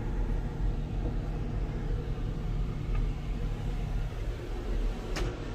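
Steady low rumble and hum inside a KTX high-speed train carriage, with a single click near the end.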